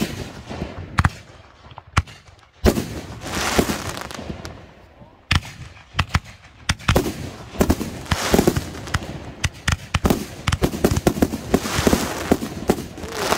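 Consumer fireworks going off: a string of sharp bangs with hissing and crackling bursts. The bangs come thick and fast in the second half.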